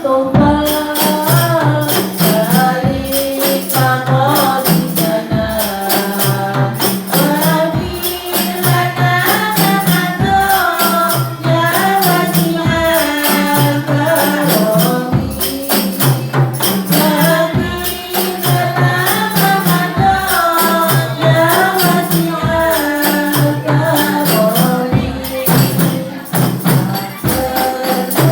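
Hadroh ensemble playing: rebana frame drums with jingles beating a dense, steady rhythm with deep thuds, under a sung Islamic devotional melody.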